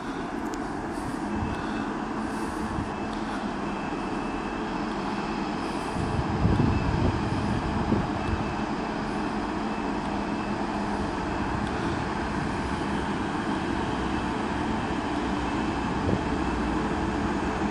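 Deutsche Bahn regional express train pulled by a red electric locomotive, pulling out of the station and accelerating: a steady electric locomotive hum with faint whining tones over wheel and rail noise, growing slightly louder as it approaches, with a louder patch about six seconds in.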